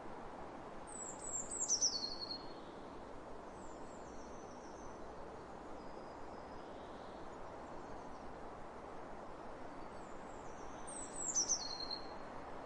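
A small songbird singing two bright, quick phrases of high notes that tumble downward in pitch, about a second in and again near the end, with fainter shorter phrases between. A steady soft hiss of open-air ambience runs underneath.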